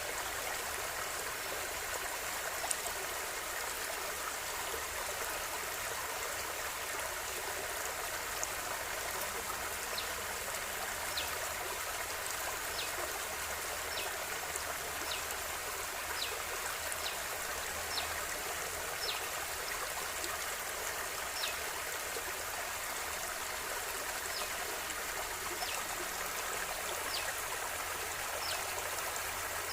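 River water flowing in a steady rush, with small high plinks of water popping up every second or so through the middle and latter part.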